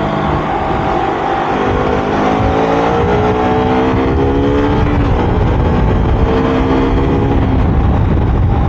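KTM RC 200's single-cylinder engine accelerating on the move, its pitch climbing twice with a drop between as it shifts up, over wind rumble on the microphone.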